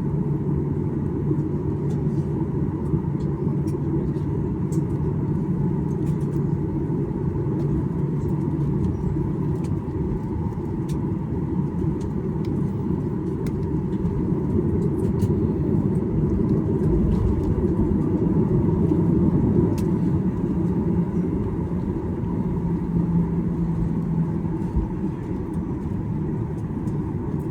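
Cabin noise of a Boeing 737-800 taxiing after landing: a steady low rumble from the idling CFM56 engines and the airflow, with a steady hum under it and a few faint ticks.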